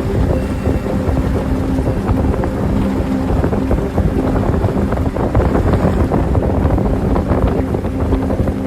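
An engine running steadily, with heavy wind noise rumbling on the microphone.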